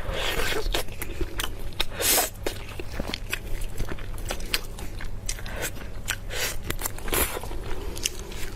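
Close-miked eating: a person biting and chewing food with many irregular crunchy, crackling clicks and a few louder crunches.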